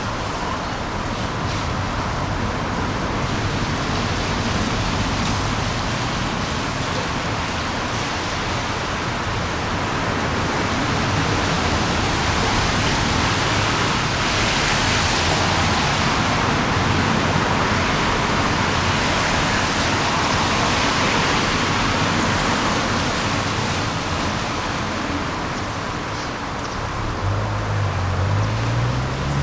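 Steady outdoor noise of wind and passing traffic, swelling a little midway, with a vehicle engine rising in pitch near the end.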